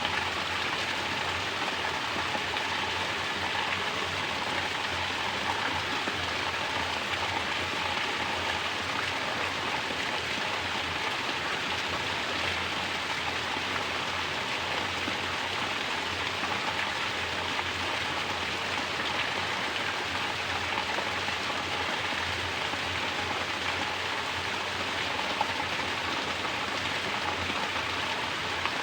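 Mountain water falling in a natural shower, splashing steadily onto rock and pooled water in a continuous, even rush.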